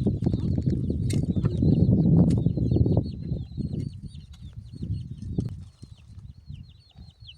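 Small birds chirping over and over in short, falling peeps, over a louder low rustling and knocking that fades after about three seconds.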